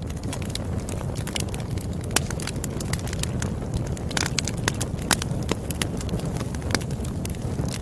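Campfire crackling: irregular sharp pops and snaps from the burning wood over a steady low rumble of the flames, with a short hiss about four seconds in.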